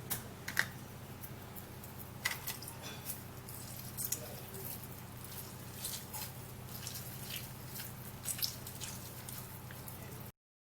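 An orange being squeezed by hand for juice: scattered small wet squishes and clicks over a steady low hum.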